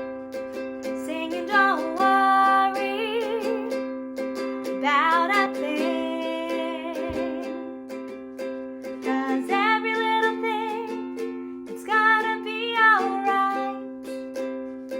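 A voice singing four short phrases with wavering pitch over a strummed stringed instrument, whose chords keep ringing between the phrases.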